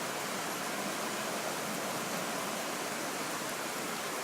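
Steady rush of floodwater flowing through a street, an even hiss-like noise with no breaks.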